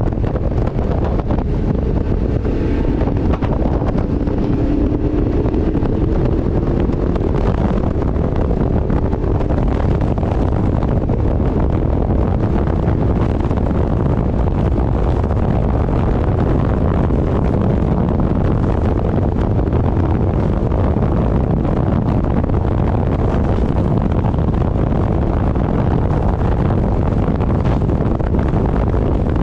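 Steady wind rush on the microphone mixed with engine and road noise from a motorcycle cruising at speed. A faint engine tone drifts in pitch in the first several seconds.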